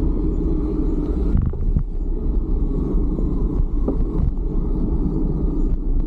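Steady low wind rumble on the microphone of a camera carried on a moving bicycle, mixed with road and traffic noise, with a few faint ticks.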